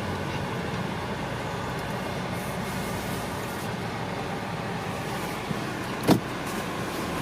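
A car running, heard from inside the cabin as a steady low hum, with one short click about six seconds in.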